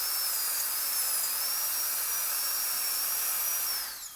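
High-speed dental handpiece with a 1016 round diamond bur cutting into a molar: a steady high whine over hiss that wavers slightly, then drops in pitch and stops near the end as the drill is lifted off.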